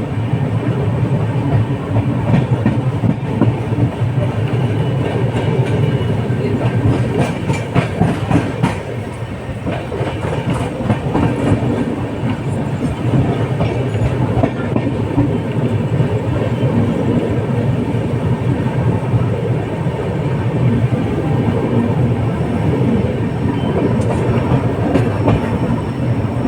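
Sampoorna Kranti Express running through at speed, its wheels clattering over the rail joints in a steady clickety-clack over a loud rumble.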